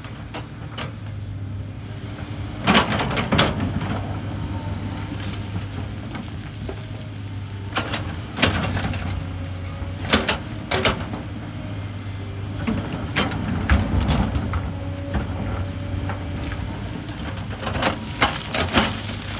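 Hyundai excavator's diesel engine running steadily, with scattered sharp clanks and knocks as it works, several coming in quick pairs.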